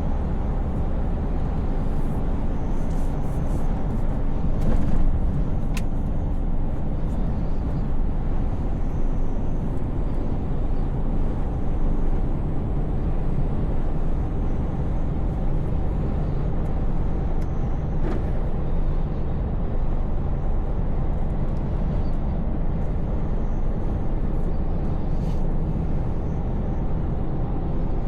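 Scania S580 truck's V8 engine running steadily under way, blended with road noise, the low rumble even throughout. A few faint clicks sound over it.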